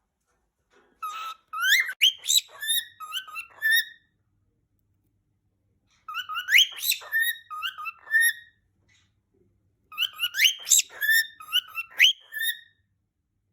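Pet cockatiel whistling its song in three short phrases of rising swoops and chirps, each a couple of seconds long, with silent gaps of about two seconds between them.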